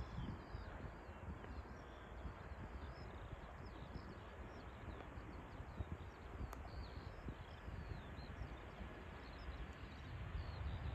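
Faint outdoor ambience: small birds chirping high and repeatedly over a low, steady rumble from a distant jet airliner landing.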